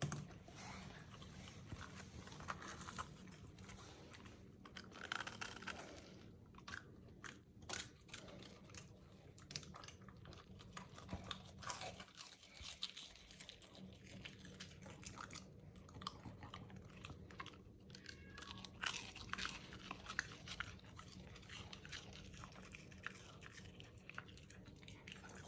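Shiba Inu puppy eating buñuelos, chewing and biting with many short, irregular crunches of the fried dough.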